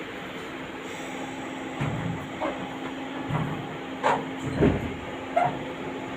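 Railway station platform ambience: a steady hum with a few short, indistinct distant voices and a dull thump about four and a half seconds in.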